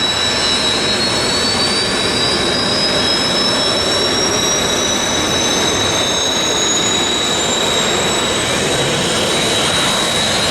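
F-15J Eagle's Pratt & Whitney F100 turbofan engine starting: a loud, steady jet noise with a high whine that climbs slowly in pitch as the engine spools up.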